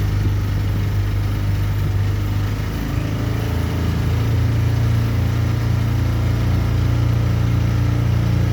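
Boat motor running steadily with a low hum; about three seconds in its note shifts slightly higher and evens out.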